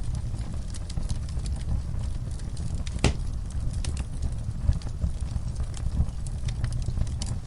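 Wood fire in a fireplace crackling, with a low steady rumble under scattered sharp pops; one louder pop about three seconds in.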